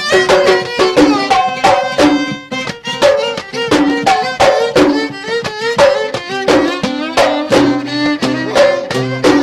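Instrumental passage of Gulf sawt music: a violin plays an ornamented melody over the steady beating of mirwas, small double-headed hand drums.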